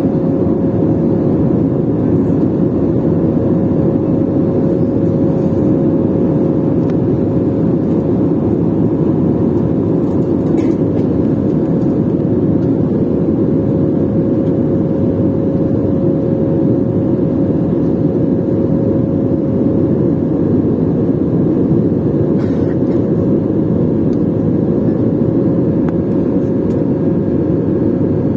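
Jet airliner engine and airflow noise after takeoff: a steady, unchanging low roar with a constant faint hum running through it.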